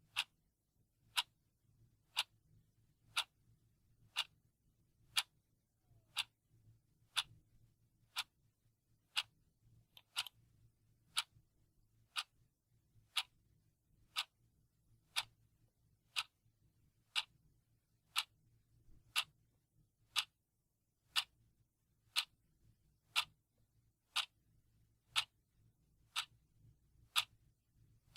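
Mechanical clock ticking steadily, about one tick a second, the ticks alternating slightly louder and softer in a tick-tock pattern.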